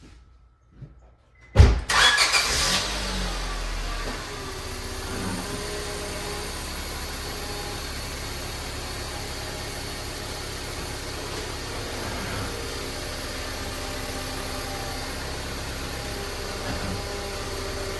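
Car engine starting with a sudden loud burst about a second and a half in, running louder for a couple of seconds, then settling to a steady idle.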